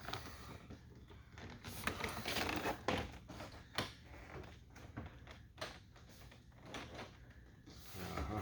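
Hard plastic trim clicking and knocking against the truck door as it is handled and worked into place, a string of irregular short clicks and taps.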